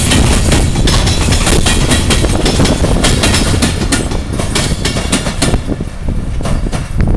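Freight train wagons of a coal train passing close by: steady rolling rumble with wheels clattering and clicking over the rail joints, easing off slightly near the end.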